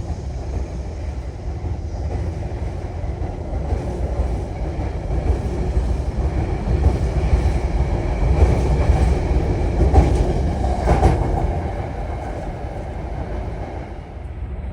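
Metro-North commuter train running past on the rails: a steady rumble of wheels and cars with clickety-clack over the rail joints, and a few sharper clicks about ten seconds in.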